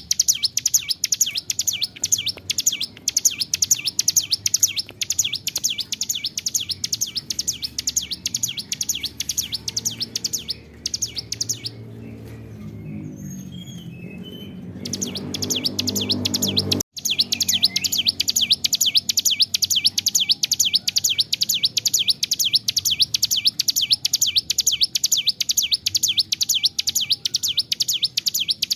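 Ciblek gunung (mountain prinia) singing a long, unbroken run of rapid, high chirps, several a second, the persistent full song that bird-keepers call gacor. About eleven seconds in, the song breaks off for some five seconds while a low rumbling noise swells and then cuts out abruptly, and the chirping starts again.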